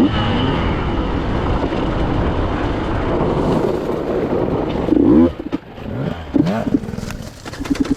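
Two-stroke enduro motorcycle engine running hard under load. From about five seconds in, it comes off and on the throttle in several short blips, the revs rising and falling each time.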